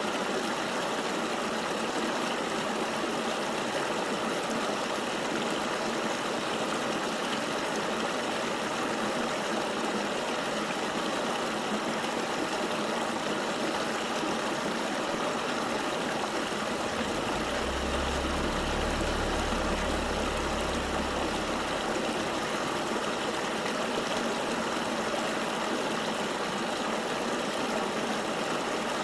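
Flowing river water, a steady, even rush with no breaks. A low rumble comes in for a few seconds a little past the middle.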